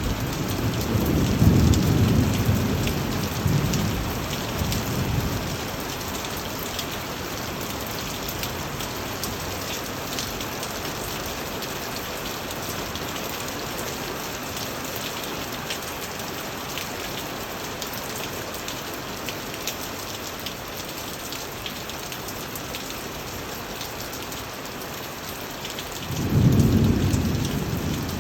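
Steady rain falling on surfaces, with two low rumbles of thunder: one swelling about a second in and lasting several seconds, another near the end.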